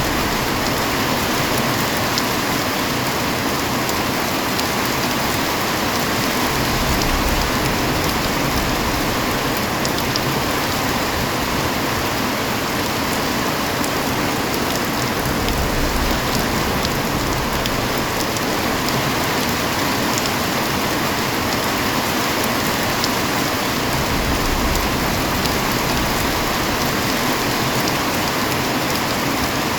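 Heavy rain falling steadily, a dense even hiss with scattered sharp drop ticks, and a few brief low rumbles rising under it.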